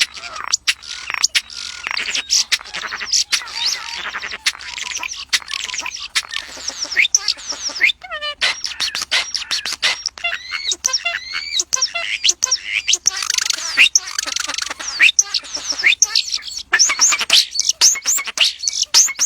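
Many birds chirping and calling at once in a dense, continuous chorus of quick whistles, chirps and trills.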